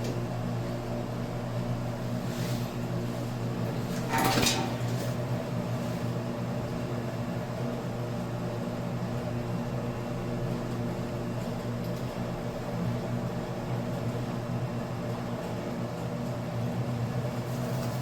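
Steady mechanical hum, even and unchanging, with a brief knock about four seconds in.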